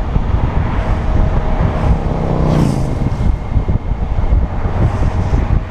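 Wind rush and road noise on a moving Honda Gold Wing motorcycle. About two and a half seconds in, a vehicle passes by, its sound rising and then dropping in pitch as it goes.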